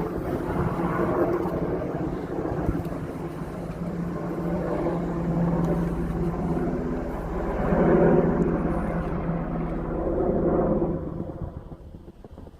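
Sikorsky helicopter flying low overhead, a steady mix of rotor and engine noise that swells and then fades away near the end.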